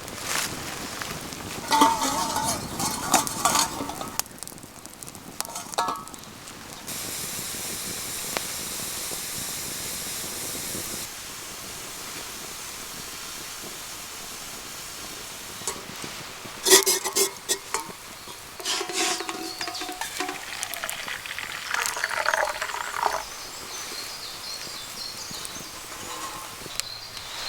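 Food frying in a pan over a campfire: a steady sizzle, with a metal utensil clattering and scraping in the pan now and then.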